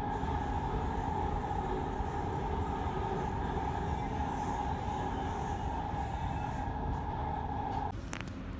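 Doha Metro train running, heard from inside the carriage: a steady low rumble with a steady whine over it. The whine cuts off suddenly near the end.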